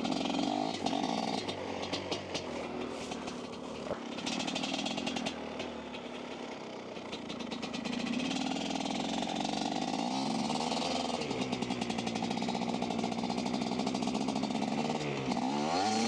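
Two-stroke dirt bike engine running under throttle, its pitch shifting up and down. It revs in quick swells near the end while the rear wheel spins without grip in the snow.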